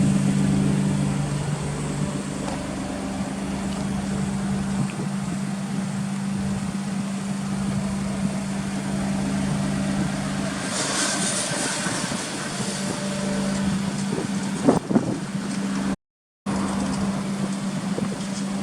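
Daihatsu Esse's three-cylinder engine idling through an aftermarket HKS muffler, a steady low hum, with a brief hissing burst about eleven seconds in and a click near the end.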